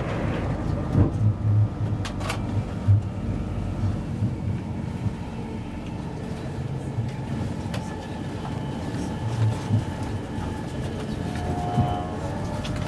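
Steady rumble of an InterCity 225 running at speed, heard from inside a passenger coach, with a few heavy thumps in the first three seconds as another train passes close alongside.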